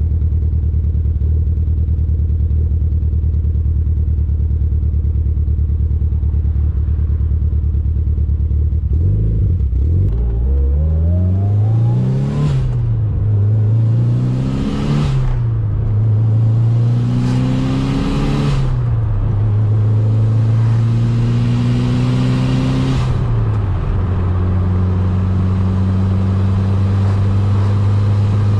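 Mitsubishi Lancer Evolution VIII's turbocharged four-cylinder through an Invidia aftermarket exhaust. It runs at a steady pitch, then accelerates from about nine seconds in. The pitch climbs and drops sharply four times as it upshifts through the gears, then settles into a steady cruise.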